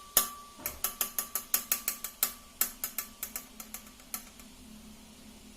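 A rapid series of sharp clicks, about five or six a second, thinning out and stopping about four seconds in, leaving a faint low hum.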